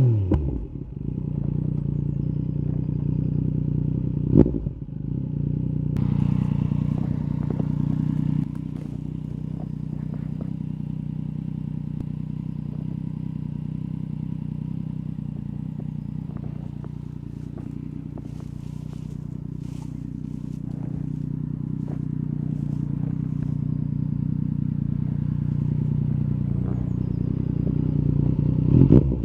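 Yamaha MT-09 SP's three-cylinder engine, breathing through an Akrapovic carbon racing exhaust, running at steady low revs under light throttle. There is a brief louder burst about four seconds in, and the engine drops a little quieter after about eight seconds, then slowly builds toward the end.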